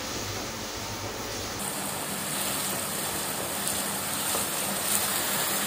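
Chopped onions and ginger-garlic paste sizzling in hot oil in a non-stick pan while a wooden spatula stirs them. The hiss turns brighter and louder about a second and a half in.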